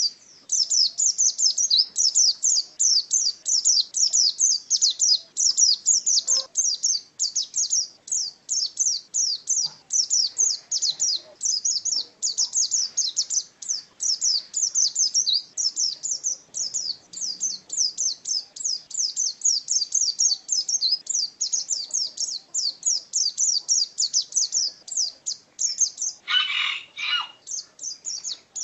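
Pleci (white-eye) songbird singing a fast, unbroken stream of high-pitched chirping notes, several to the second. Near the end, two louder, lower notes break in.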